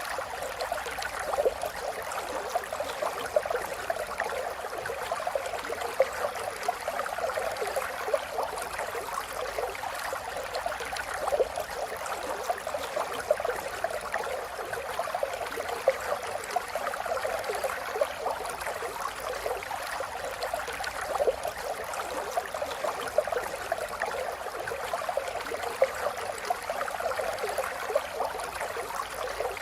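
A river flowing over stones, with a steady babble of fine splashes and gurgles.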